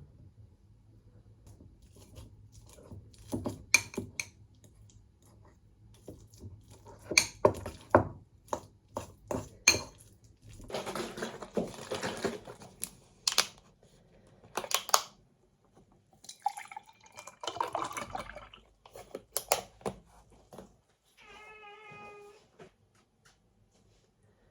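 Household kitchen sounds: dishes and utensils clinking and knocking in scattered bursts, with two stretches of running or pouring liquid. A short, steady, pitched tone sounds near the end.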